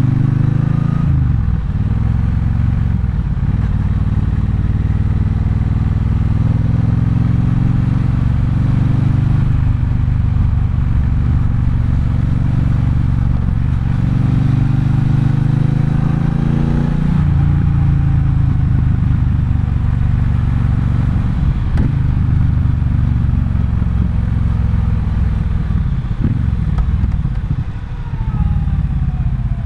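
Triumph Bonneville Bobber's 1200 cc parallel-twin engine running under way. Its pitch climbs steadily under throttle for several seconds and drops sharply at a gear change about seventeen seconds in, then it pulls on at a lower pitch.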